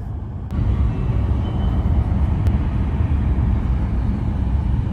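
Steady low rumble of a bullet train's cabin at speed, jumping louder about half a second in and then holding steady.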